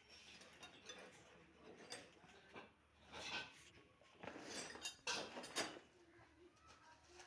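Metal parts clinking and scraping as they are handled, in scattered short clicks with a louder cluster of scrapes past the middle.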